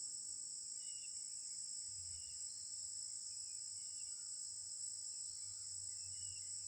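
Steady, high-pitched insect chorus of crickets trilling without a break, with a few faint short chirps repeating over it and a faint low hum joining about two seconds in.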